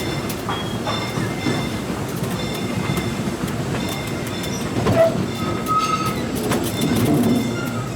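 Disneyland Railroad train rolling along the track, its wheels clattering with short squeals, one of them clearer about six seconds in.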